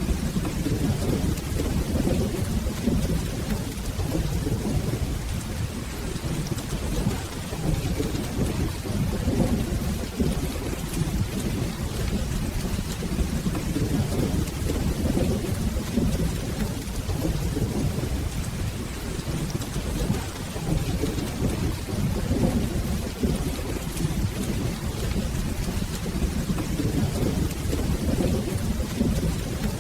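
Steady rain with low, rolling thunder rumbling on and off beneath it.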